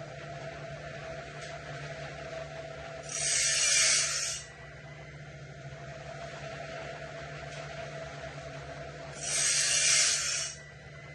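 Woodland Mills bandsaw blade sharpener running automatically: a steady motor hum, with a high grinding rasp of about a second and a half twice, some six seconds apart, as the grinding wheel works a tooth of the blade.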